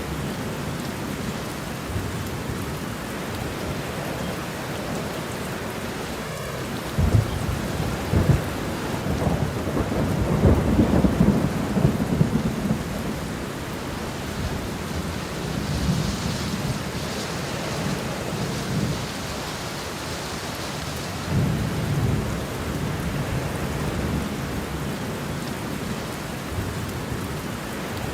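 Steady rain falling, with rolling thunder rumbling through it. The thunder is loudest from about a quarter of the way in to near the middle, and swells again later.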